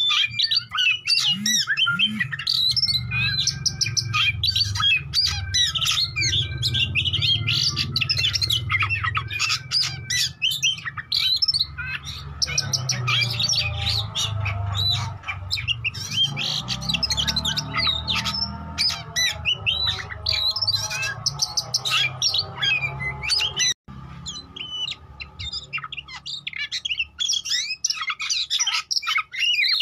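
Oriental magpie-robin (kacer) in full song: a fast, unbroken run of varied whistles, chirps and harsh squawky notes, over a steady low hum. The sound cuts out for an instant near the end.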